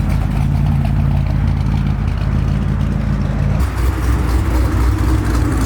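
Car engine running at a steady idle, with a low even note. About three and a half seconds in it switches abruptly to a deeper, rougher rumble.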